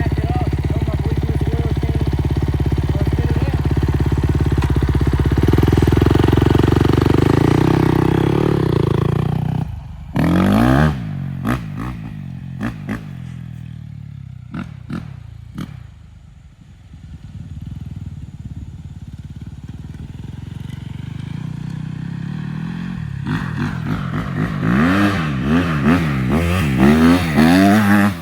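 Kawasaki 250 dirt bike engine running close by, then revved in quick throttle blips about ten seconds in. It drops to a quieter, more distant run for a while, and near the end it is revved up and down again and again.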